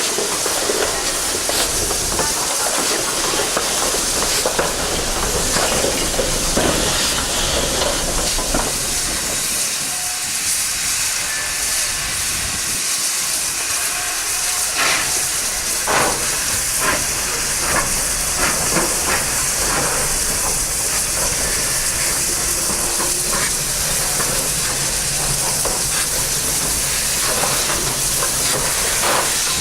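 Steam locomotive hissing steam steadily, with scattered clicks and knocks.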